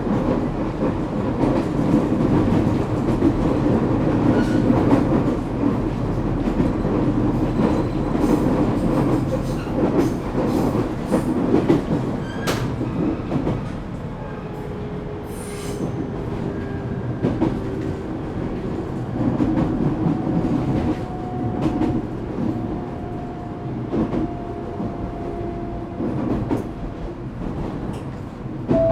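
Echigo Tokimeki Railway ET127 series electric train running, heard from inside the car: a steady rumble of wheels on rail with scattered rail-joint clicks. About halfway through, the rumble drops and the steady whine tones of its Toyo GTO-VVVF inverter come in as the train slows.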